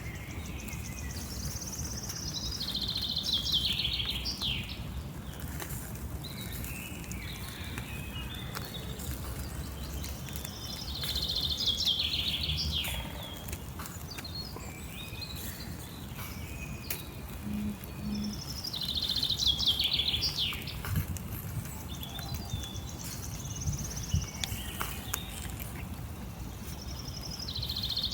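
A songbird singing the same short, falling, trilled phrase four times, about eight seconds apart, over a steady outdoor background.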